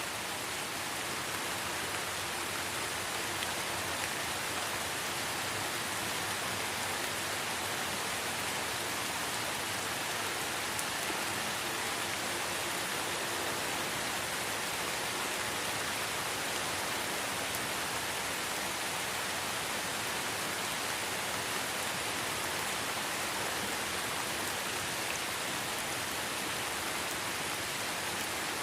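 Steady light rain falling in a forest, an even hiss with faint scattered drop ticks.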